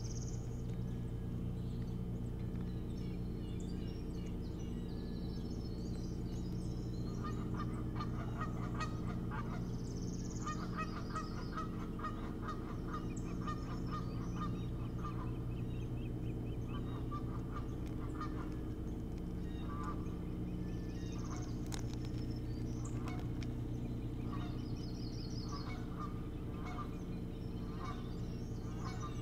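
A bird calling in runs of short, rapidly repeated notes, starting about seven seconds in and recurring to the end, over a steady low hum. Small birds chirp high and briefly now and then.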